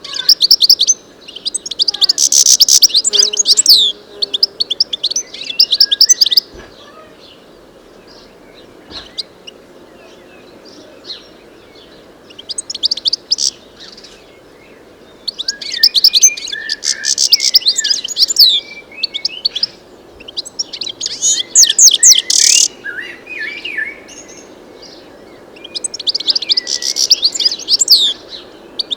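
European goldfinch singing: bursts of rapid, high twittering notes, several seconds long, with a quiet gap of several seconds in the middle.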